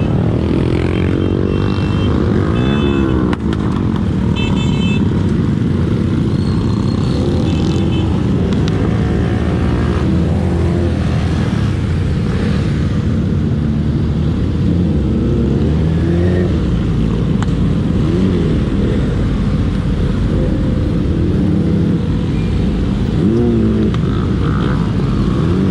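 Motorcycle engines running on the move: a steady engine drone, with other motorcycles revving up and down around it. Several short high-pitched beeps come in the first eight seconds.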